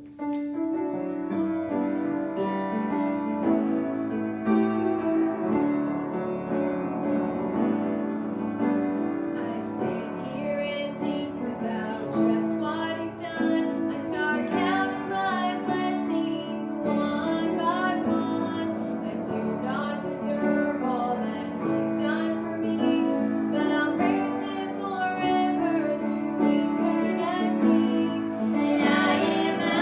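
Piano accompaniment starting abruptly, with a woman's singing voice coming in about ten seconds in and carrying on over the piano.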